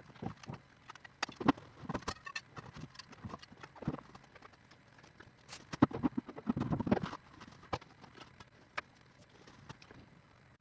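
Irregular sharp knocks and clacks of hard objects striking, sparse at first, with a louder, denser cluster about six to seven seconds in.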